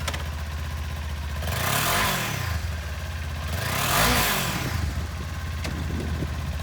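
2018 Kawasaki Ninja 400's fuel-injected, liquid-cooled 400cc parallel twin idling, with two brief throttle blips about two and four seconds in, engine speed rising and falling back to idle each time; the second is louder.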